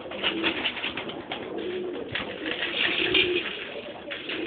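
Domestic pigeons in a loft cooing repeatedly in low, throaty notes, over a busy patter of clicks and rustling from the birds moving about.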